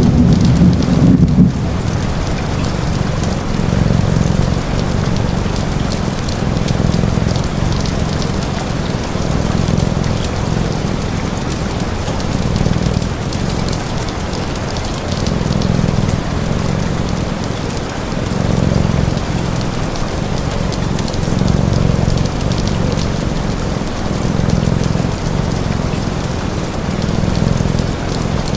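Steady rain, with a low rumble of thunder that ends about a second and a half in. Under the rain, a low cat purr swells and fades about every three seconds.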